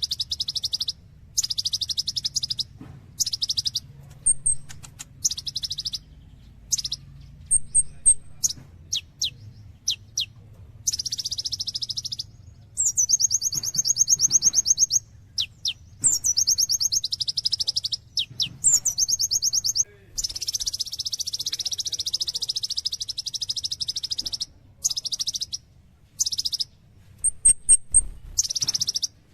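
Kolibri ninja sunbird singing: a run of rapid, high trilled phrases lasting one to several seconds, broken by short thin high notes and quick falling whistles.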